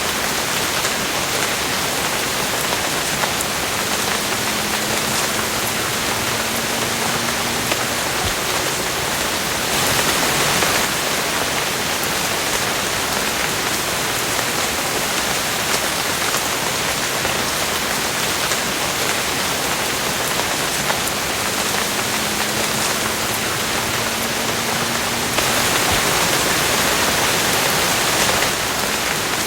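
Steady rain falling, an even hiss with scattered drop ticks, swelling louder for a second or so about ten seconds in and again for a few seconds near the end.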